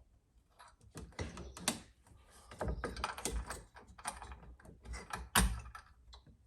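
Irregular clicks, clacks and a few duller knocks of hand tools, screws and plastic outlet-box parts being handled, with a louder knock about five seconds in.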